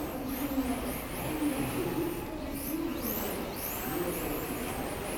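Electric RC drift cars running, their motors whining in repeated rising and falling pitch sweeps as the throttle is worked, over a low wavering hum.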